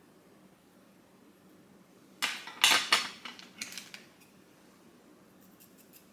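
A burst of clattering and clinking of small hard objects about two seconds in, lasting under two seconds, followed by a few faint ticks near the end.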